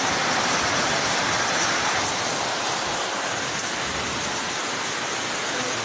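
Heavy rain pouring down in a steady hiss, slightly louder in the first couple of seconds.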